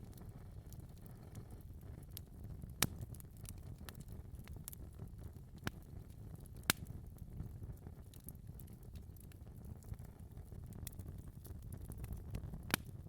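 Wood fire crackling in a fireplace: a low steady rumble of burning with constant small ticks, and several louder sharp pops scattered through.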